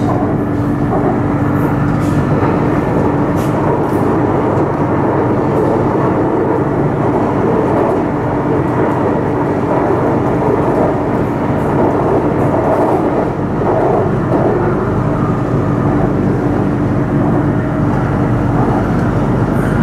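Bangkok BTS Skytrain car running along the elevated line, heard from inside the car: a steady rumble of the wheels on the track with a constant hum under it.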